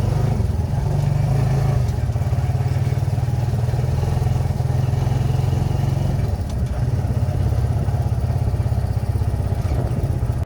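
Kawasaki Barako II 175cc single-cylinder four-stroke motorcycle engine running steadily, with a quick, even pulse.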